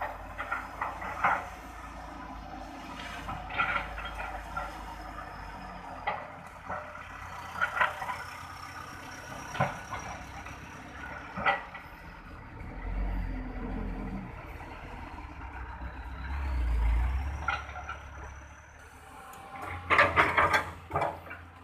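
Heavy truck engine running, revving up twice in the middle, with scattered metallic clanks and rattles and a burst of knocks near the end. A faint high whine drifts up and down throughout.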